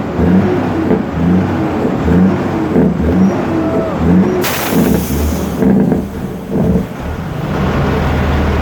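Heavy trucks running in a street, a low rumble that pulses about twice a second. About halfway through there is a loud hiss of air lasting about a second, after which the rumble settles to a steady hum.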